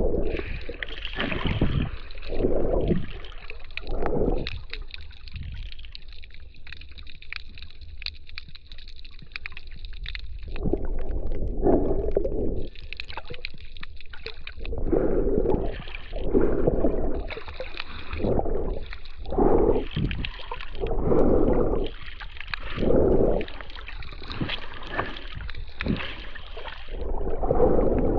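Sea water sloshing and gurgling around the camera while snorkelling, in repeated surges every second or two over a steady low rumble.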